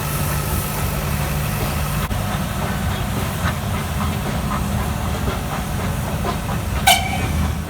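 Swiss-built (Winterthur) X-class rack steam locomotive of the Nilgiri Mountain Railway standing in steam, hissing steadily over a low rumble. A brief high-pitched squeal comes near the end.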